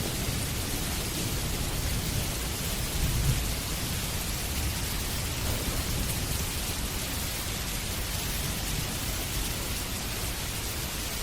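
Steady heavy rain, with a low rumble underneath that swells briefly about three seconds in.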